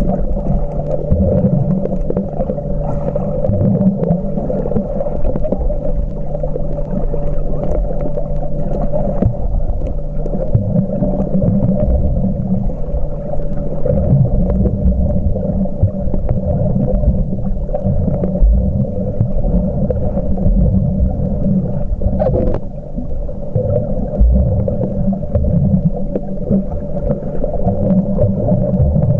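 Muffled underwater sound picked up by a camcorder while snorkeling: a steady low hum with water sloshing and gurgling, and a single click about 22 seconds in.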